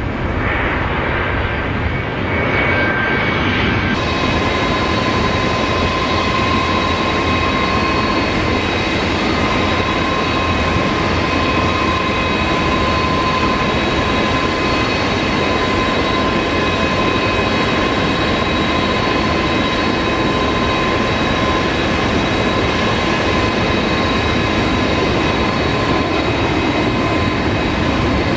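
Jet airliner engines running loud and steady: a dense rushing noise with several held, high whining tones. The sound changes abruptly about four seconds in, and the high whine is steady from then on.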